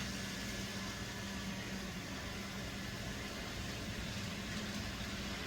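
N scale model train running on the layout: a steady low hum with a faint even whir and no change in level.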